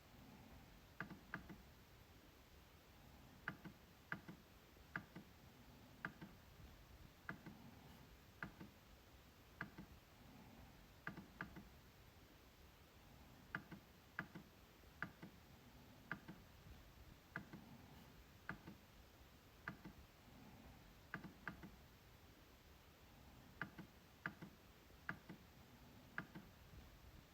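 MacBook trackpad being clicked repeatedly at an uneven pace, about one to two clicks a second, often in quick pairs.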